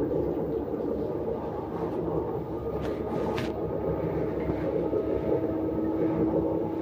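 Engine running steadily with a rapid knocking and rattling, the unexplained knock and rattle its owner is asking about.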